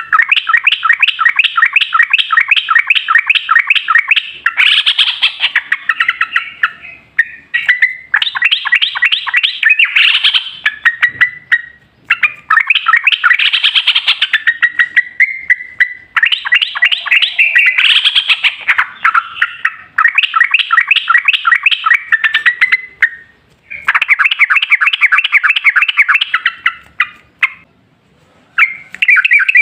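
Yellow-vented bulbul (trucukan) singing loudly in long, rapid runs of repeated chattering notes, about ten a second, in phrases of one to four seconds separated by short pauses.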